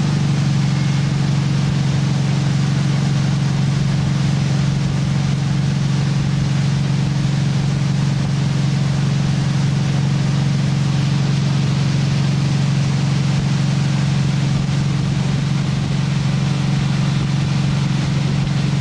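Motorboat engine running at a steady, unchanging throttle while towing a water skier: a constant low drone over a rush of water and wind noise.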